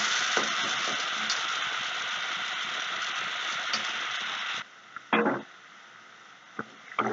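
Onions, green chilli and freshly added tomatoes sizzling in hot oil in a kadai, a steady hiss. A little past halfway the sizzle cuts off abruptly, followed by a short, louder noise and a faint click.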